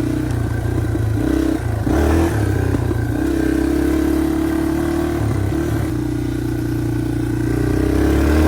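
Dirt bike engine running as the bike is ridden, the revs changing in steps and climbing near the end.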